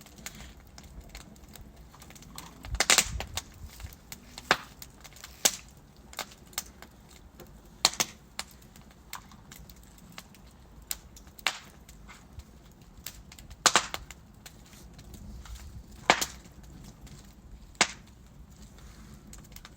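Wood fire crackling: burning logs giving sharp, irregular pops and snaps every second or two over a faint steady background.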